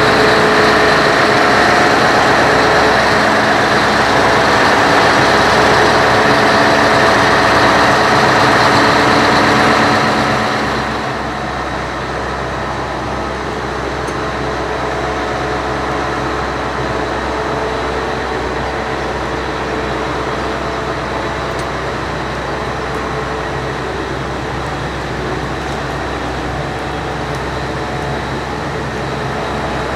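Heavy diesel machinery running steadily with a constant pitch. It drops to a lower, duller level about a third of the way in.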